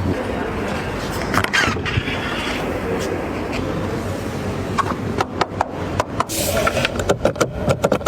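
A car running with a steady rumble of engine and road noise, joined by a run of sharp clicks and knocks in the second half.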